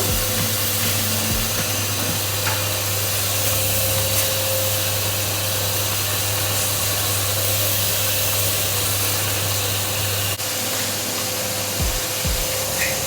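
Vacuum cleaner motor running steadily with a constant whine, powered from a portable power station under load. A brief dip about ten seconds in, then a few low thumps near the end.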